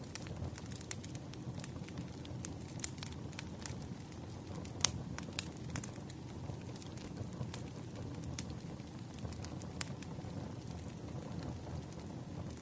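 Wood fire crackling: a steady low rush with irregular sharp pops and snaps, one louder snap about five seconds in.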